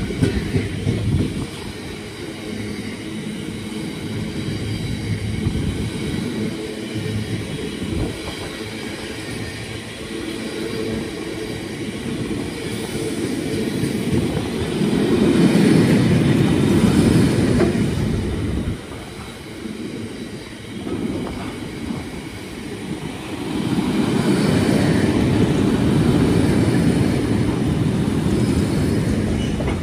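Long freight train of bogie tank wagons rolling past at speed: a continuous rumble of wheels on the rails, growing louder twice, once in the middle and again for several seconds near the end.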